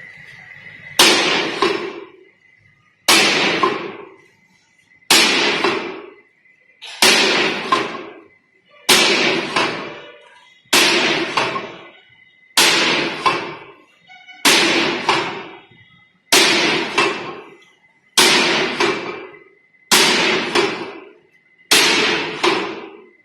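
Metal clangs, about one every two seconds, a dozen in all, each struck sharply and ringing out over about a second, typical of steel plate being struck during work at a plate rolling machine.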